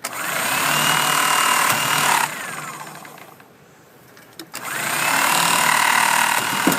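Mighty C stone trimmer run twice while trimming a rock, each run about two seconds long, its pitch rising as it starts and falling as it stops.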